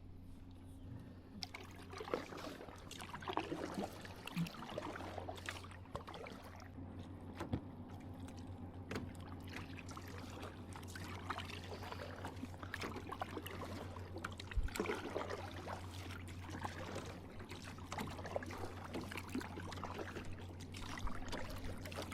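Water splashing and trickling from a kayak, irregular surges every second or two as the paddle dips and drips, over a steady low hum.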